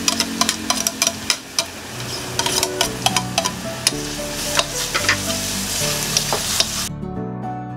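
Minced garlic and onions sizzling in hot oil in a wok, stirred with a spatula that clicks and scrapes against the pan. The frying cuts off abruptly near the end, leaving background music.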